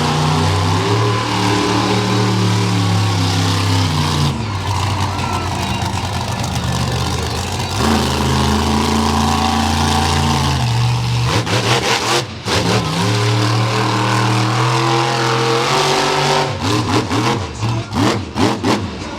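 Monster truck engine running hard under throttle, its pitch rising and falling as the driver works the gas. Near the end the sound breaks into rapid, choppy blips.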